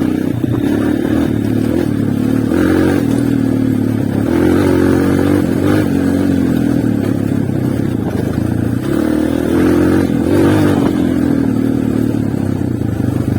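Honda CRF230 trail bike's single-cylinder four-stroke engine running under riding load, its pitch rising and falling with the throttle, with a few short clatters.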